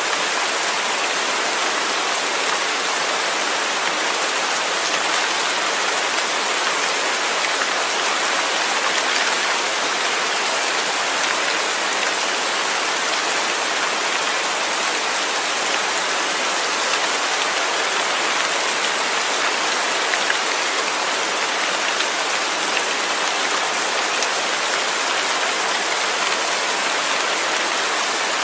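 Steady, continuous rain falling on a surface, an even hiss of many drops.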